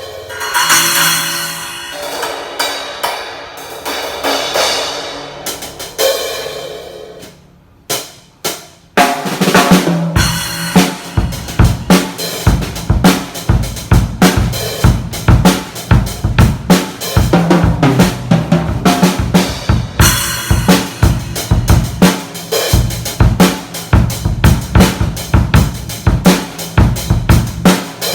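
Mapex Tornado acoustic drum kit being played: a few cymbal strikes left ringing and fading at first, then from about nine seconds in a steady groove on kick drum, snare and cymbals.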